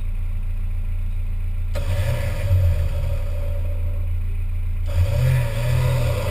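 Off-road 4x4 engine idling, then revved hard twice in long pulls of about three seconds each, the second starting right as the first drops away.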